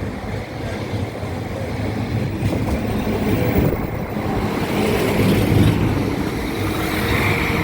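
Northern diesel multiple-unit train approaching the level crossing, its engine drone growing steadily louder.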